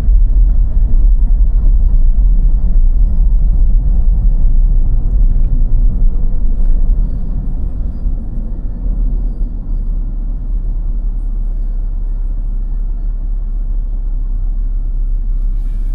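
Low, steady rumble of a car driving on snow-covered roads, heard from inside the cabin: tyre and road noise mixed with the engine. It becomes quieter about seven seconds in.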